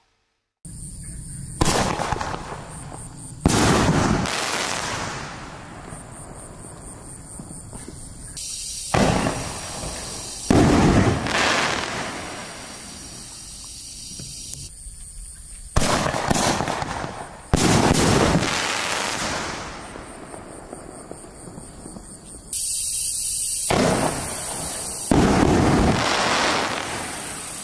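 50 mm aerial shells fired from mortar tubes and bursting, heard from a distance: sharp booms in pairs about two seconds apart, four pairs in all, each ringing out in a long echo, with a steady hiss under the last pair.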